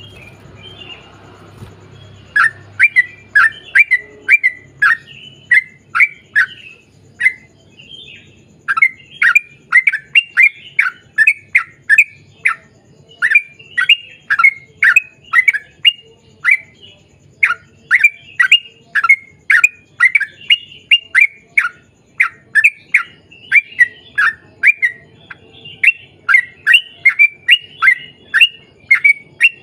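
Yellow-vented bulbul (trucukan) singing a long, rapid run of short chattering notes, starting about two seconds in and continuing in runs broken by brief pauses.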